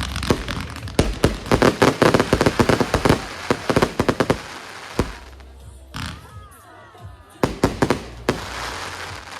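Fireworks going off: a rapid string of sharp cracks and bangs, a single bang about five seconds in, then another short cluster of bangs near the end.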